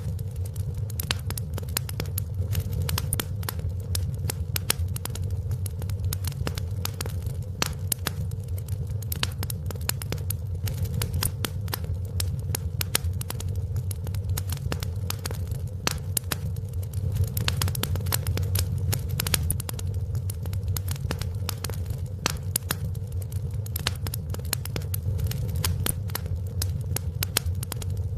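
Wood fire in a fireplace crackling: dense, irregular pops and snaps over a steady low rumble.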